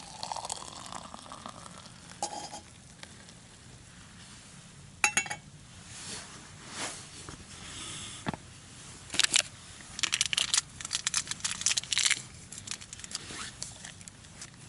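Packaging crinkling and tearing, mixed with clinks and knocks of cups and utensils being handled, with a sharp knock about five seconds in and a dense run of crinkling between about nine and twelve seconds.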